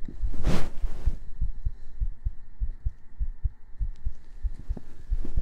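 Heartbeat sound: a steady rhythm of soft, low thumps in lub-dub pairs. A breathy whoosh, like a breath close to the microphone, comes about half a second in.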